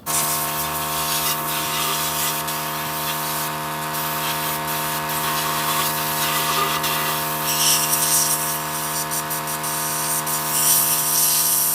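Electric power tool running at one steady pitch with a rough hiss over it, cutting in abruptly at the start and cutting off near the end.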